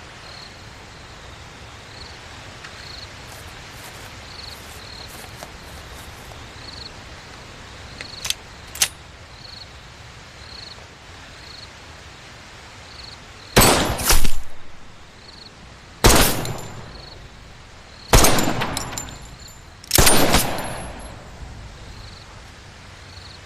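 Gun firing single shots: two close together, then three more about two seconds apart, each crack trailing off in an echo. A couple of light metallic clicks come several seconds before the first shot.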